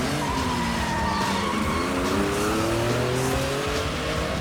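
Car engine revving hard in a chase, its pitch climbing, dropping briefly at a gear change about a second and a half in, then climbing again, with tyre skidding.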